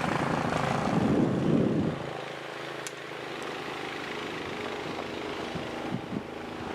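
Snowblower engine running steadily, louder for about the first two seconds and then suddenly fainter.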